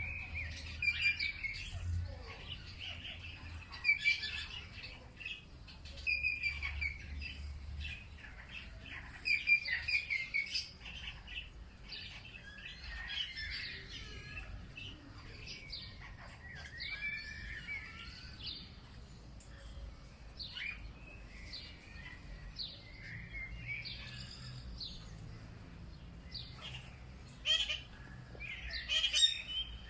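Several songbirds chirping and singing in short overlapping phrases, a busier burst near the end.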